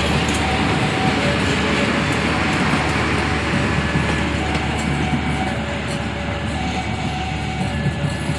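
Passenger train passing close by, hauled by a CC 201 diesel-electric locomotive: a steady rumble of the locomotive's diesel engine and the wheels on the rails, giving way to the rolling coaches.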